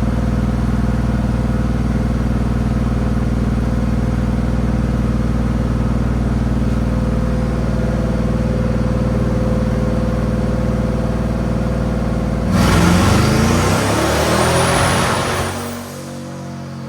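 GMC Sierra's 5.3 V8 on headers idling steadily, then revved hard once about twelve seconds in for a few seconds before dropping back.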